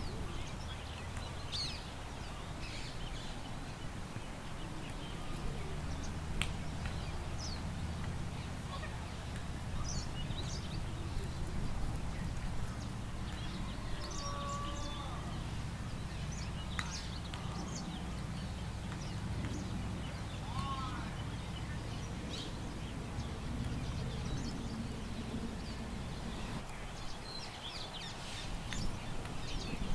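Park ambience: scattered short bird chirps and calls over a steady low rumble of wind.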